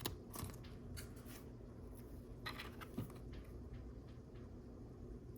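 Faint rustling and light scratchy clicks of a Lego sticker sheet being handled as a sticker is peeled off, in a cluster near the start and again about halfway through.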